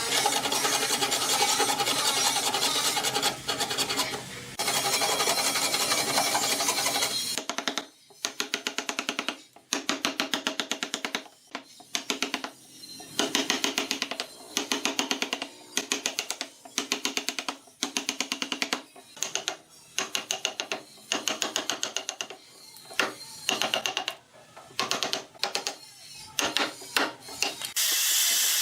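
Woodworking tool noise: a power tool runs steadily for about seven seconds and stops. Then come short rasping strokes on wood, about one a second, with brief pauses between them.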